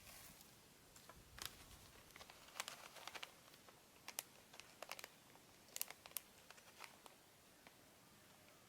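Scattered faint clicks and light taps at irregular intervals, sometimes several in quick succession, over quiet room tone.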